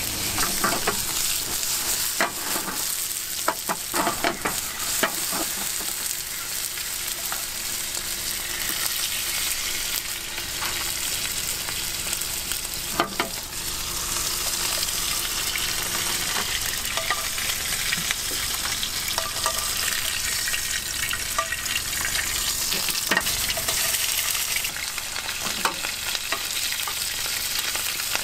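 Mushrooms and cherry tomatoes, and later whole shrimp, sizzling in hot oil in a frying pan over a gas burner. It is a steady sizzle, with metal tongs clicking and scraping against the pan now and then, most often in the first few seconds.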